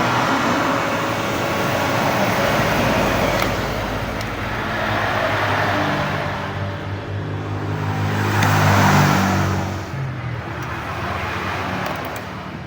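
Heat gun running: a steady rush of blown air over a low motor hum that swells and eases, heating a car headlight's sealant so the lens can be pried off.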